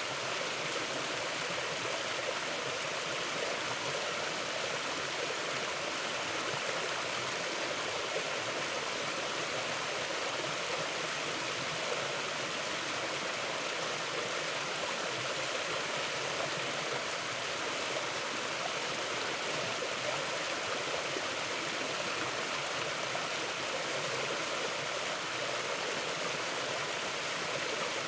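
Mountain river flowing, a steady, even rush of water with no change.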